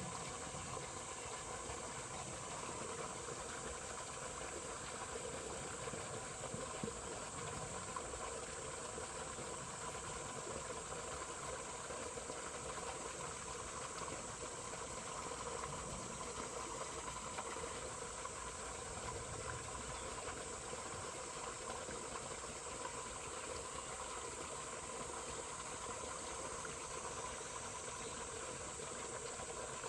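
Flowing water rushing steadily, with a continuous high insect trill over it.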